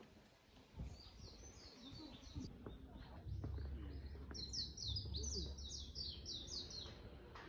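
A songbird singing rapid runs of short, high, falling chirps, one run about a second in and a longer one from about the middle to near the end, over a low rumble.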